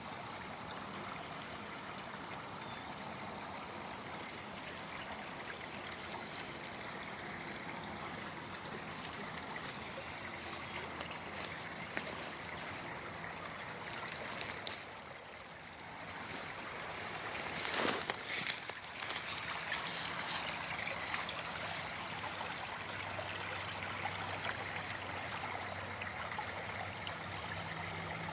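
Stream water running steadily over rocks, with a few short clicks or knocks about halfway through.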